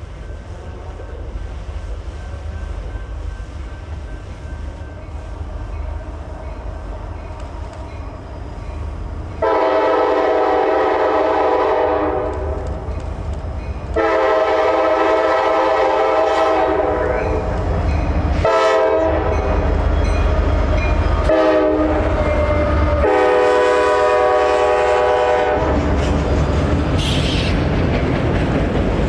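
Nathan K5LA five-chime air horn on the leading CSX locomotive sounding a series of blasts, two long, two short and a final long, over the rumble of the approaching freight train. After the horn, the train's engines and cars keep rumbling past.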